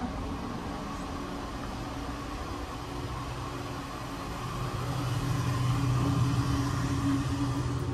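Steady hum of a stationary train's onboard machinery, with two held low tones, growing louder about halfway through as the walk reaches the automatic door between cars.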